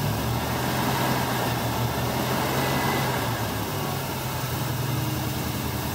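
Freshly installed 327 Chevy small-block V8 running steadily at a raised speed, held at about 1500 to 2500 rpm for camshaft break-in, its pitch shifting slightly just after the start and again near four seconds in.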